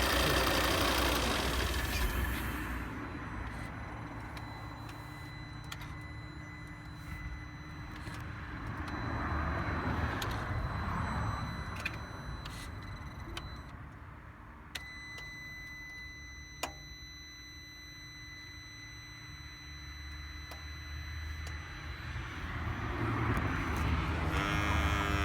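2012 Volvo S60 after engine shut-off: a steady, thin, high-pitched electrical buzz, with a click about fifteen seconds in after which the buzz sounds sharper, and another click shortly after. Whether this buzz at engine stop is normal is the owner's open question.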